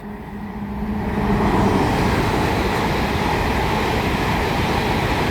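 A GWR Class 800 IET train passing through the station at speed: a loud, even rushing sound that builds over the first second or two and holds. A steady hum fades out about two seconds in.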